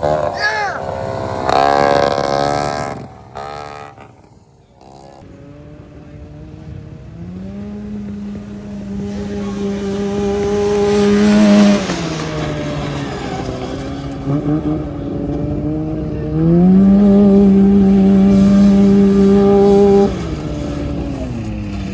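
Racing lawnmower engine revving, then running at a steady high speed for several seconds and getting louder, easing off, and going back up to the same steady speed for a few more seconds before easing off again.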